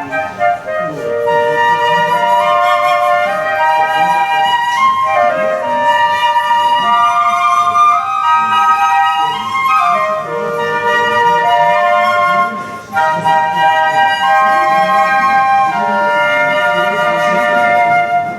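Flute trio playing a melody in three-part harmony, a string of held notes moving together with brief breaks between phrases.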